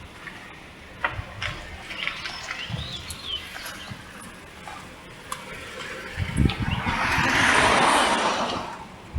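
Birds chirping in short calls, one rising and falling. Near the end a rushing noise swells up and fades away over about two seconds.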